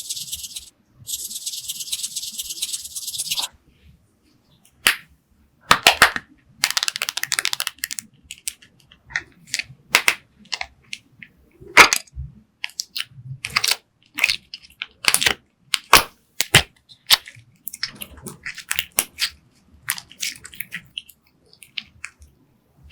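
Clear slime being squished and folded by hand: an irregular run of sharp sticky clicks and pops. Before that, a steady high hiss lasts about the first three seconds.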